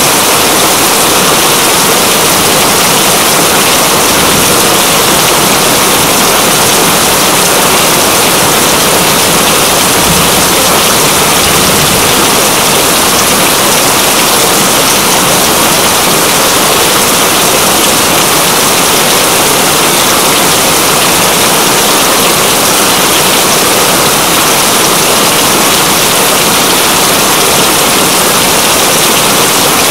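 Steady heavy rain, a loud continuous hiss that does not let up.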